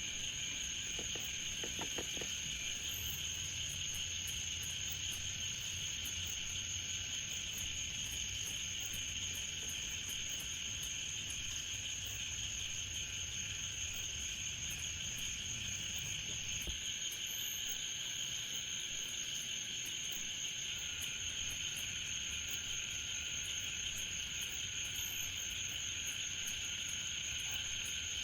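Steady chorus of night insects, a continuous high-pitched trilling in several pitch bands that never lets up, with faint scattered ticks above it.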